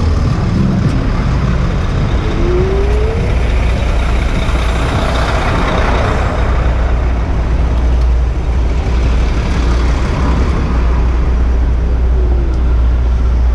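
Busy city traffic heard from a moving bicycle: steady low wind rumble on the camera microphone under the noise of buses, trucks and cars, with a passing vehicle swelling loudest about halfway through. A brief rising squeal comes about two and a half seconds in, and a shorter falling one near the end.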